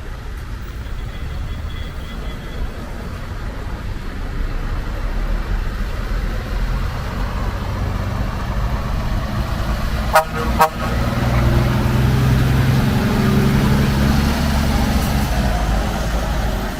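Scania R540 truck engine running and growing louder, with two quick toots of the horn about ten seconds in. After the toots the engine note gets louder and heavier, with pitch lines that rise slightly, as it pulls away.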